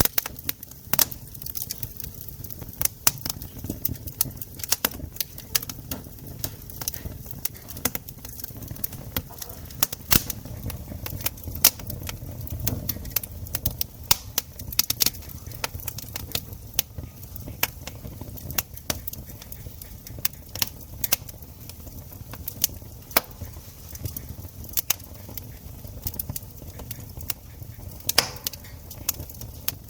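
Wood campfire crackling and popping, with frequent irregular sharp snaps over a low steady rumble of the flames.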